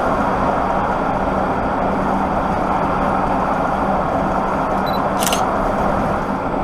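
Steady engine and road noise inside a lorry cab while driving, with a low steady hum. One short, sharp high click sounds about five seconds in.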